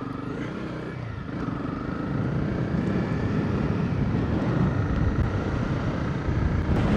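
Motorcycle engine pulling away and gathering speed, getting louder over the first two seconds, then running steadily with a rushing noise of wind and track.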